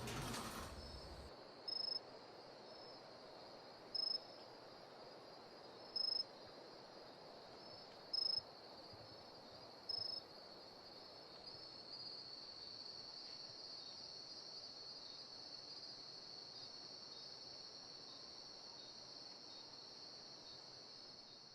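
High-pitched electronic tone: a loud short beep about every two seconds, five times, over a faint steady high whine, which then turns into a continuous high tone from about eleven seconds in.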